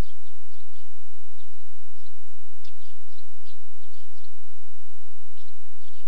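Steady hiss with small birds chirping over it: short, high chirps, a few each second, coming irregularly.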